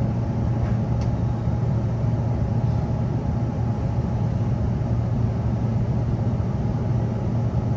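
Steady low hum and rumble inside the carriage of a Queensland Rail NGR electric passenger train.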